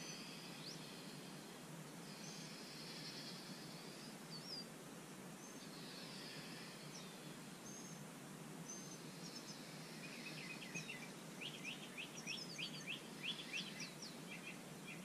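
Birds chirping and calling over a steady faint outdoor hiss, with a quick run of sharp chirps in the last few seconds.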